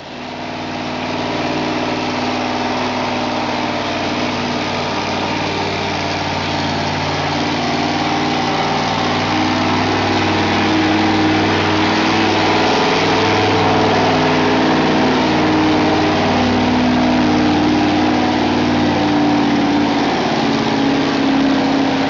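Modified gas-class pulling truck's engine running loud and steady. Its pitch holds nearly constant, and it grows a little louder over the first several seconds.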